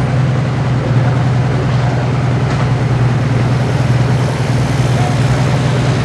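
Heavy diesel engine running steadily at a low, even pitch, with no revving.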